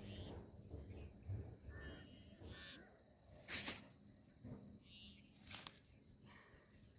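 Birds calling: a handful of short, scattered calls, the loudest a brief sharp one about three and a half seconds in and another just before six seconds.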